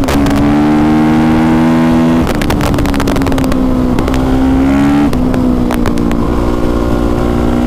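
2020 Honda CRF450R's single-cylinder four-stroke engine running under way through its new aftermarket exhaust, its note climbing slowly and then dropping sharply twice, with a scatter of sharp clicks and knocks in between.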